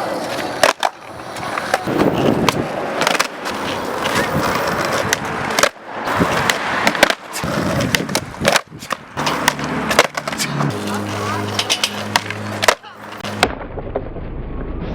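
Skateboard on extra-wide freeboard trucks rolling on pavement, with repeated sharp clacks of the board's wheels and deck hitting the ground. Near the end a steady low hum takes over.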